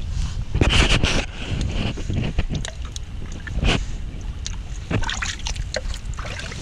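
Wind buffeting the microphone in a steady low rumble, with a few short splashes and sloshes of footsteps wading through shallow tidal water.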